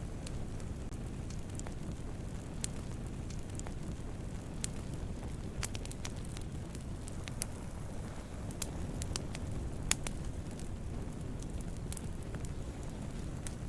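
Wood campfire burning with a steady low rush of flames and scattered sharp crackles and pops, the loudest pop about ten seconds in.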